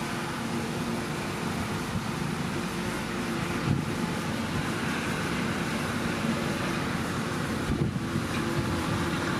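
Heavy diesel earthmoving machinery running steadily, with a brief knock about four seconds in and another near eight seconds.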